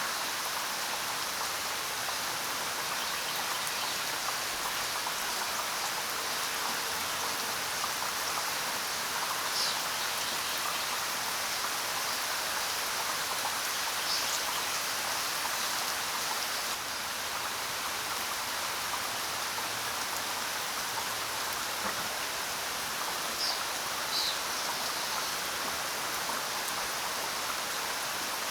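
Steady rain, an even hiss of falling drops, with a few short, high bird chirps scattered through it, two of them close together near the end.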